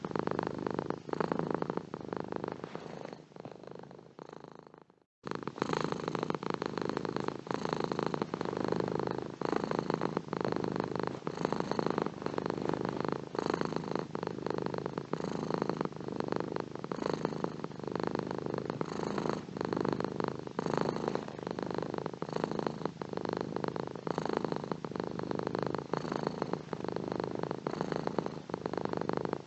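Domestic cat purring in a close, steady, rapid flutter. It fades away a few seconds in, stops for a moment, then starts again abruptly and carries on steadily.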